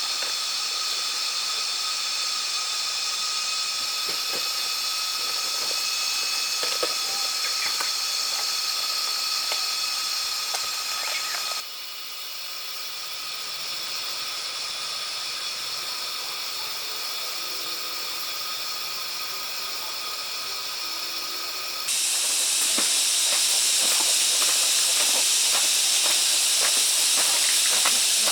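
Steady outdoor hiss with a few high, level tones running through it. It drops abruptly in level about twelve seconds in, then jumps louder and brighter about twenty-two seconds in.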